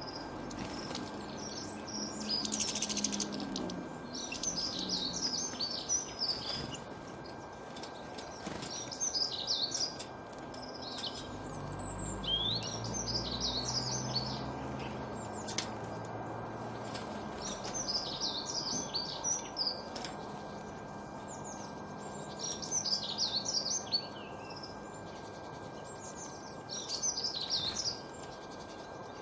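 Birds chirping in short, busy bursts repeated every two to three seconds, over a steady background hiss. A low rumble rises and fades around the middle.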